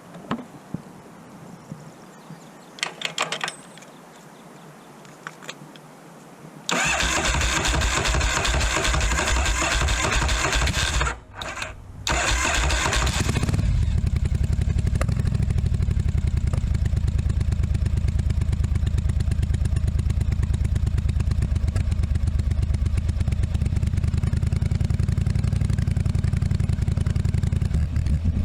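1982 Yamaha Virago 750's air-cooled V-twin engine being started after a few light clicks of work: it catches and runs loudly for a few seconds, cuts out for about a second, then picks up again and settles into a steady, evenly pulsing idle.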